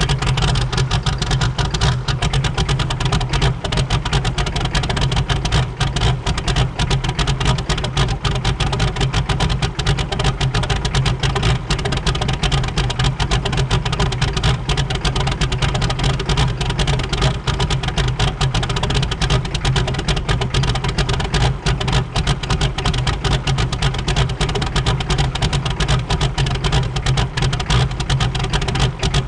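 6.5-litre V8 diesel engine of a race truck idling steadily, cold, on a winter start.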